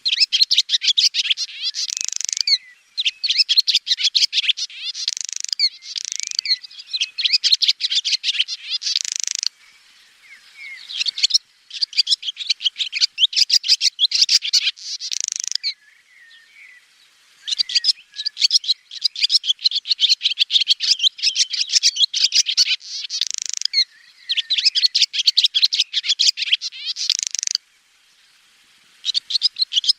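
Swallow twittering: long runs of rapid, high chirps and trills lasting a few seconds each, broken by short pauses about a third of the way in, past the middle and near the end.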